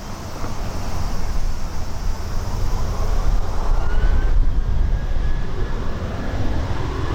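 Jet noise from a Boeing 737-800's CFM56 turbofan engines: a heavy low rumble growing louder, with a thin whine rising in pitch and then holding steady.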